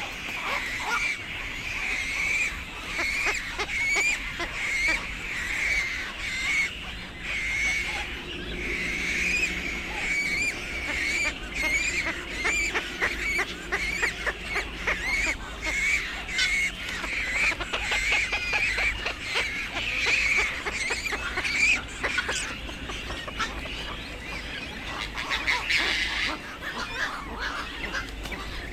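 A flock of black-crowned night herons calling continuously: overlapping harsh, honk-like calls and chatter, with many short sharp clicks mixed in.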